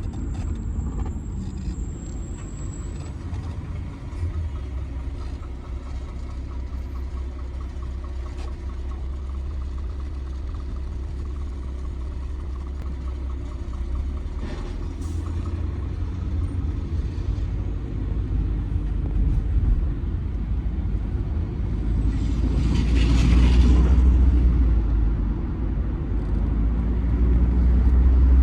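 Cabin sound of a 2007 Audi A6 C6 2.0 TDI four-cylinder diesel driving in town: a steady low engine and road rumble. About 22 seconds in it swells, with a hiss lasting a couple of seconds, and it grows louder again near the end.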